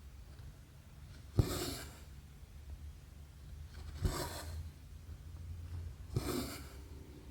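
Needle and embroidery floss working 11-count cross-stitch fabric: three stitches about two to three seconds apart, each a small click as the needle goes through, then about half a second of thread drawing through the cloth.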